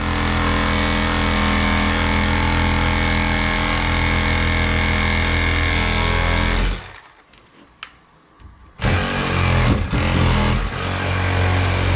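A power tool running steadily at one speed, stopping for about two seconds and then starting up again.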